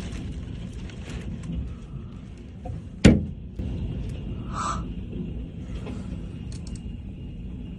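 Storm wind buffeting the microphone as a steady low rumble, with a single sharp bang about three seconds in.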